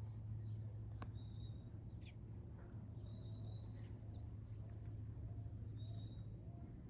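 Nature ambience: a steady high-pitched insect drone, with short bird chirps and quick falling calls scattered through and a brief run of low repeated notes in the middle, over a faint low rumble.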